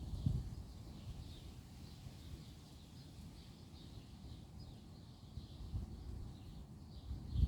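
Small birds chirping faintly and repeatedly at a high pitch over a steady low rumble, which swells briefly a few times.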